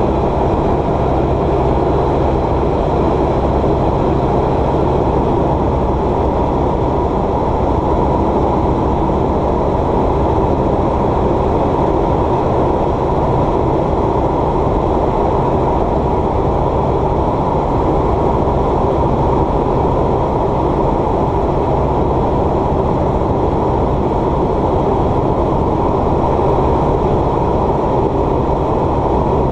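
Light propeller aircraft's piston engine running steadily in flight, heard from inside the cockpit as a constant loud drone with a low hum.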